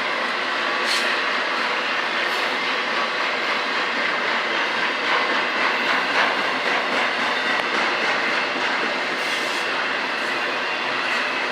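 Freight train cars rolling steadily along the rails: a continuous rumble of steel wheels on track, with occasional clacks.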